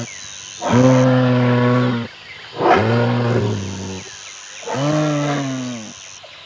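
Moose calling: three long, low bellows in a row, each lasting just over a second, with short pauses between them.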